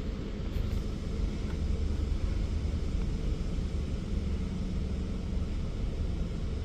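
Washworld Razor touchless car wash running on the car ahead, heard from inside a waiting car: a steady rumble and hiss of high-pressure spray and machinery, with a faint steady hum.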